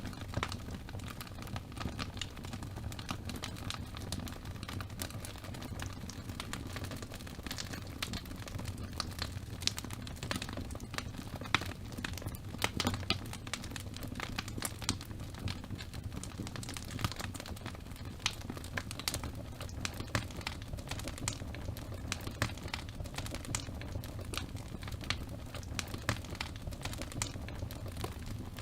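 Wood fire burning in a fireplace: a steady low rumble of flames with dense, irregular crackles and a few louder pops.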